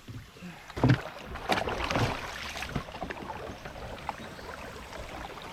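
Knocks and bumps on a kayak over water noise, with the two loudest knocks about one and one and a half seconds in, then lighter clicks.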